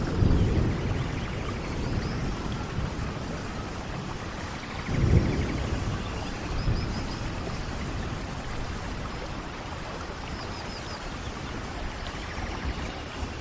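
Steady heavy rain with deep thunder rumbles, one fading just after the start and another swelling about five seconds in.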